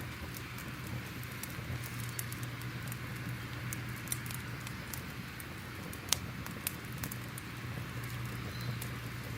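Crackling fire: a steady hiss with irregular small pops and snaps, one sharper snap about six seconds in, over a low steady hum.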